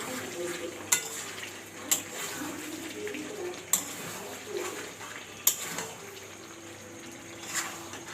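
Metal spoon stirring food in a cooking pot, clinking sharply against the pot about five times at uneven intervals.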